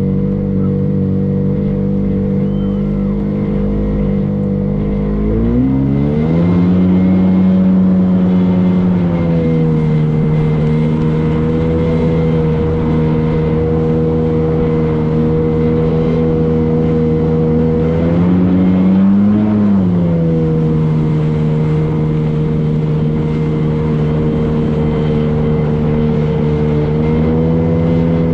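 Boat engine running under way with a steady hum. Its pitch rises as the throttle opens about six seconds in and eases down slightly a few seconds later. It rises briefly and falls back again about two-thirds of the way through.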